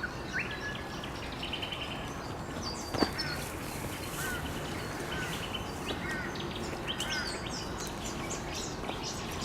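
Dawn chorus of several wild birds: short chirps, quick trills and repeated arched whistles overlapping one another, over a steady background hiss. A single sharp click about three seconds in.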